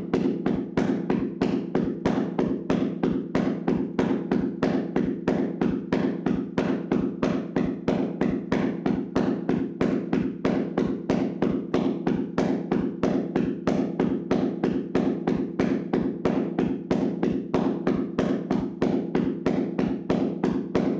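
Hands slapping and tapping on a person's body in a vigorous percussive massage: a fast, even rhythm of dull slaps, several a second, kept up without a break.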